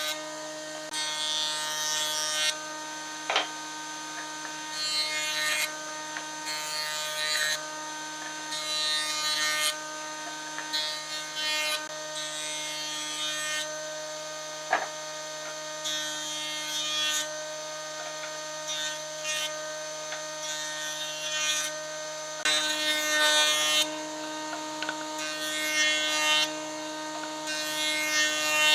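An electric power tool running with a steady whine, biting into wood in repeated strokes, each stroke a burst of hissy cutting or sanding noise about a second long, with two sharp clicks along the way.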